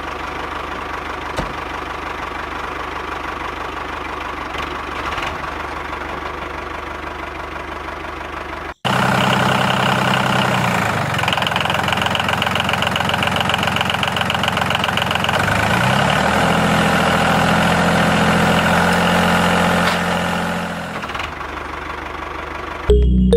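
Small motor of a DIY miniature tractor running steadily. About nine seconds in it cuts to a louder stretch, which drops back down near the end.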